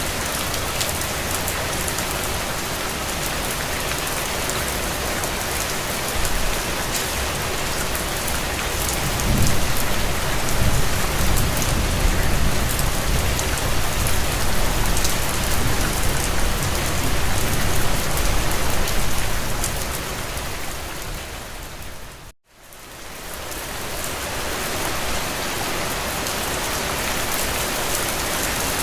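Steady rain falling, with a low rumble underneath through the middle stretch. Near the end the sound fades quickly to a brief dropout and swells back in, as at a loop or edit point.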